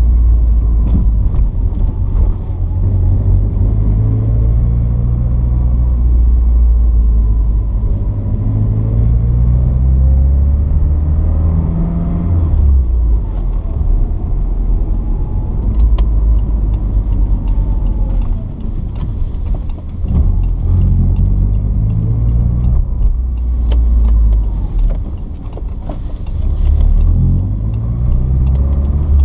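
Porsche 944's 2.5-litre four-cylinder engine driving with a five-speed manual, its pitch rising slowly under acceleration and dropping back at each gear change, several times over. A low drone sits underneath, with a few faint clicks.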